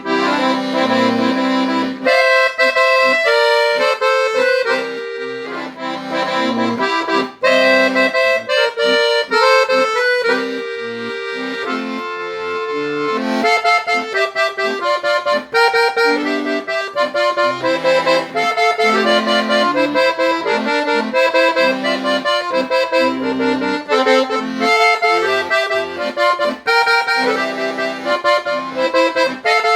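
Accordion (sanfona) playing a lively instrumental melody in quick, even notes over sustained bass and chord notes.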